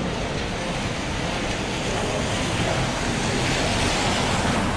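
Steady hiss of rain falling on a city street, growing a little louder from about two seconds in.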